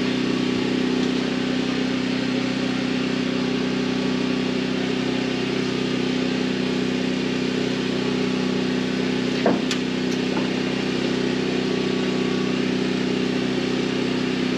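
A steady motor drone, even and unchanging, with one brief sharp click about nine and a half seconds in.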